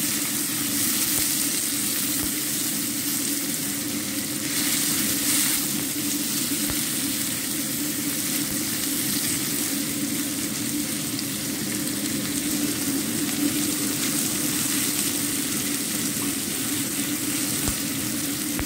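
Sliced onion, carrot, tomato and bell pepper sizzling in hot oil in a wok as they are stir-fried with a spatula: a steady frying hiss with the spatula scraping and stirring through it.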